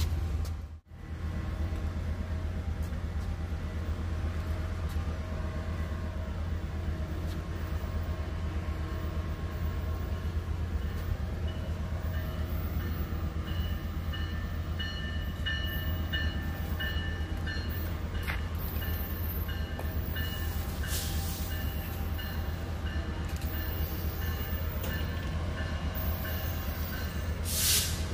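Diesel-hauled passenger train approaching a station with a steady low rumble, and from about a third of the way in a bell ringing faintly over it.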